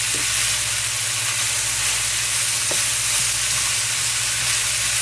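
Mushrooms and onions frying with a steady sizzle, over a low steady hum.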